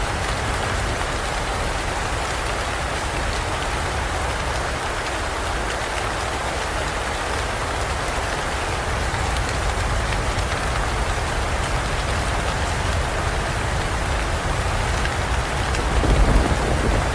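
Steady rainstorm downpour falling in a forest, with a low rumble of thunder swelling near the end.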